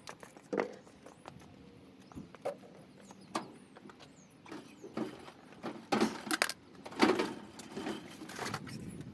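Scattered, irregular knocks and clatter, with the loudest cluster between about six and eight and a half seconds in; no engine is running.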